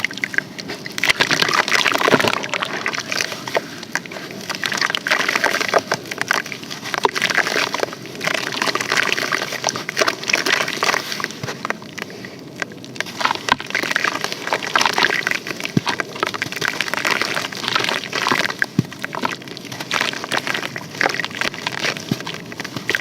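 Compressed sand and charcoal crumbling in water: a dense, continuous run of small cracks and crackles over a wet wash.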